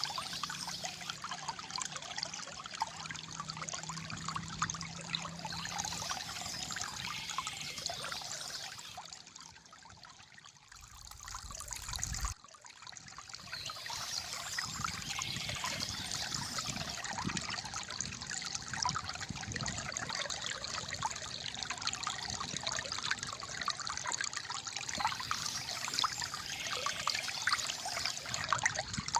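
Gently flowing water trickling and gurgling, a steady splashy flow. About ten seconds in it dips quieter, swells briefly with a low rumble, then breaks off abruptly near twelve seconds before the flow resumes.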